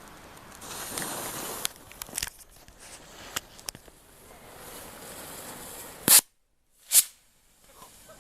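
Bottle rockets firing: a brief hissing rush about a second in, scattered crackles and clicks, then two sharp bangs about a second apart near the end.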